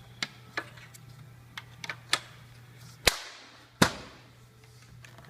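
Magnet-mounted end caps of a pull-up banner stand being fitted onto the base: a series of sharp clicks and knocks, with two louder snaps about three and four seconds in.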